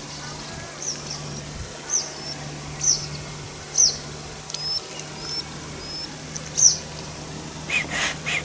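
A small bird calling in short, high chirps about once a second, each dipping in pitch, with softer flat chirps between them. Near the end a quicker series of calls starts.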